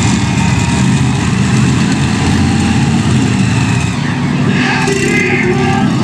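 Monster truck engine running loudly, a steady low drone.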